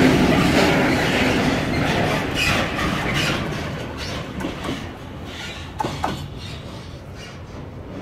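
Freight wagons rolling past on the rails, wheels clacking over the joints, the sound fading away as the end of the train passes and recedes. A short squeak sounds about six seconds in.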